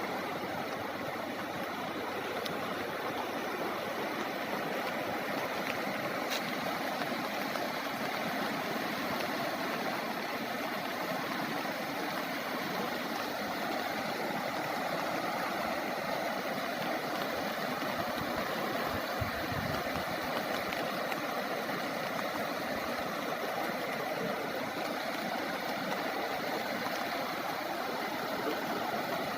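Floodwater rushing steadily, an even, unbroken noise.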